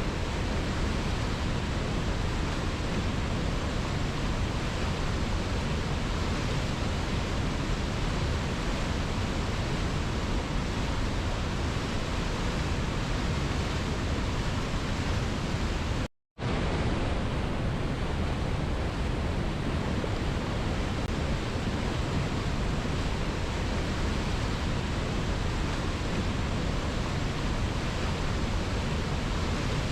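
Steady, even rush of a waterfall, dropping out to silence for a fraction of a second just past halfway before resuming unchanged, where the recording is spliced.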